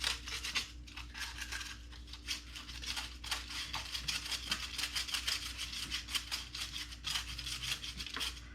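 Stiff-bristled chain brush scrubbing a motorcycle's rear sprocket, with rapid back-and-forth scratchy strokes that loosen the grime and chain cleaner.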